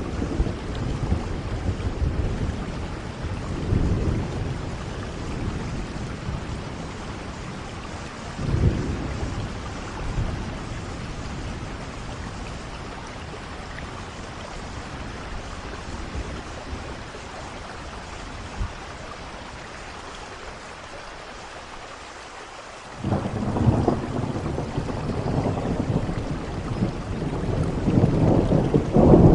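Steady rain with rolling thunder: rumbles swell about 4 and 9 seconds in, the storm eases for a while, then a sudden thunderclap about 23 seconds in starts a long rumble that grows louder towards the end.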